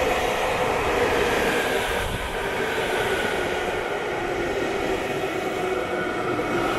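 A train running on the rails: steady running noise with a motor whine that slowly falls in pitch as the train slows.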